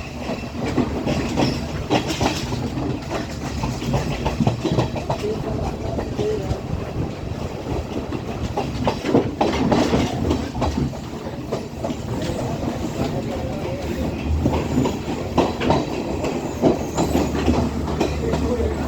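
Class S12 diesel multiple unit train running along the line: a steady low rumble with wheels clattering in irregular clicks over the rail joints.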